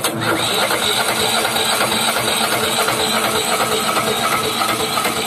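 Road roller's hard-starting engine being cranked over by its electric starter motor, a loud steady churning.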